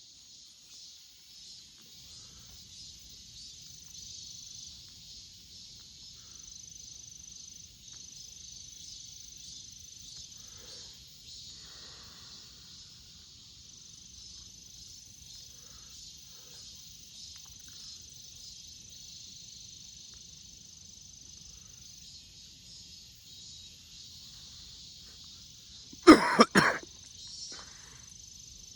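A steady, high-pitched insect chorus of summer hillside insects. About 26 s in, a brief loud burst of a few knocks or rustles cuts in over it.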